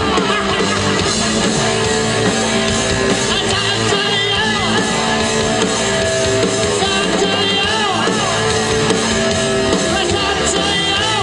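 Rock band playing live: electric guitar lines over a full band, with some singing.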